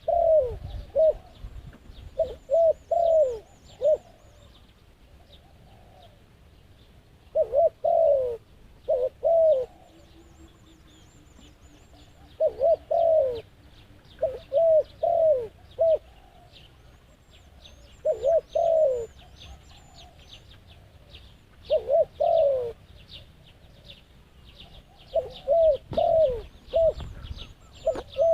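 Doves cooing in short phrases of several notes, repeated every few seconds with pauses between. Faint high chirping of small birds goes on behind them.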